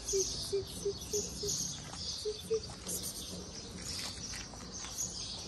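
Small birds chirping over and over, with a run of short low pips about three a second in the first second and a half and two more a little after two seconds in.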